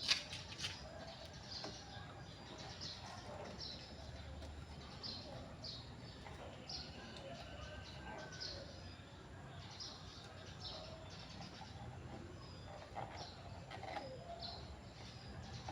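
Birds chirping: a short, high chirp repeated about once a second, with some lower calls mixed in.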